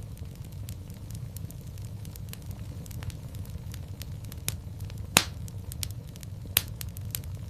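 Fireplace fire crackling: a steady low rumble of flames with scattered sharp pops, the loudest about five seconds in.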